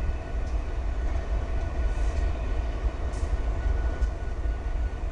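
Low, steady diesel rumble of an approaching freight train led by a GE ES40DC locomotive.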